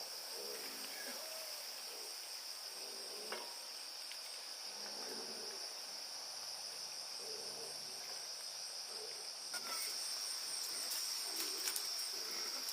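Insects in the forest keeping up a steady, high-pitched drone, with a few faint clicks and knocks.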